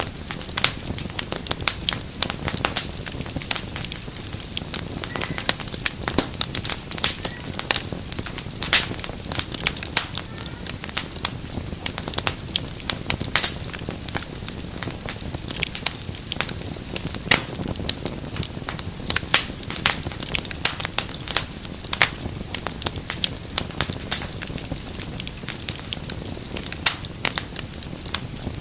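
Wood fire crackling: many irregular sharp pops and snaps, several a second, over a steady low rush of the flames.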